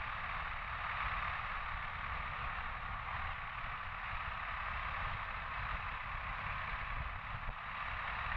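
Motorcycle riding along at a steady speed: a constant rush of wind and road noise with the low rumble of the engine underneath.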